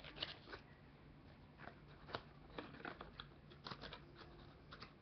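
Faint, scattered clicks and rustles of a paper block being handled as its tabs are folded and its sides pressed together for gluing.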